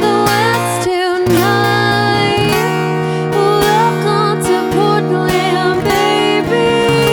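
A live band playing an instrumental break: guitar over held low notes, with a wavering lead melody on top.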